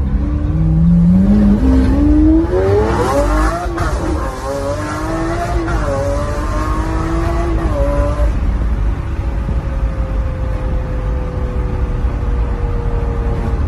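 Lamborghini Aventador V12 with a Gintani aftermarket exhaust, accelerating hard: the engine note climbs steeply to a gear change about four seconds in, pulls and wavers for a few seconds more, then settles into a steady tone that falls slowly.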